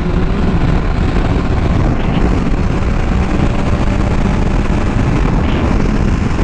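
Motorcycle running at steady cruising speed under a dense rush of wind on the helmet microphone, with a faint steady engine hum beneath it.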